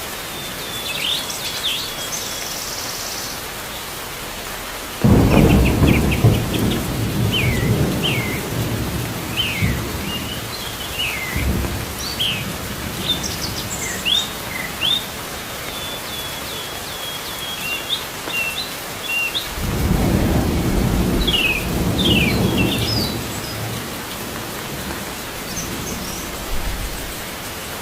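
Small birds chirping over and over in short, quick calls above a steady hiss like rain. Twice, about five seconds in and again near twenty seconds, a loud low rumble comes in and lasts a few seconds.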